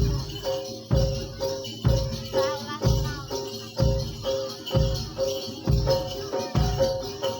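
Kuda lumping accompaniment music played live by a Javanese gamelan ensemble: a deep drum beat about once a second, with a repeating metallic pitched note over it.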